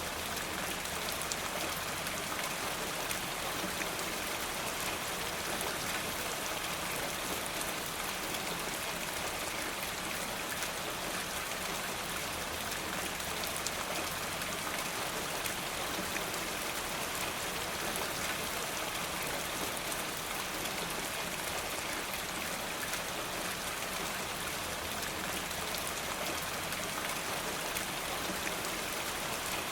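Steady rain falling, an even hiss of many small drops without let-up.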